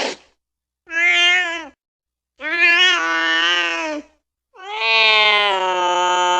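Domestic cat meowing three times: a short meow about a second in, a longer one, then a long drawn-out meow that holds a steady pitch.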